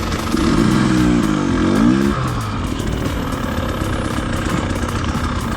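Dirt bike engine revving, its pitch rising and falling over the first two seconds, then running on more steadily.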